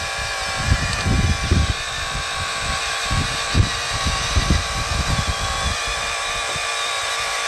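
Electric hydraulic pump of a 1/12 scale RC excavator running steadily with a high, even whine, a little bit loud as it holds about 20 bar of pressure. Irregular low rumbles come and go through the middle of the stretch.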